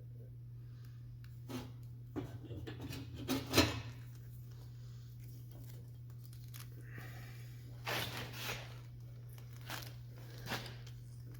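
Electrical tape pulled off the roll and wrapped around the end of a steel cable, heard as short tearing bursts with the loudest about three and a half seconds in, over a steady low hum.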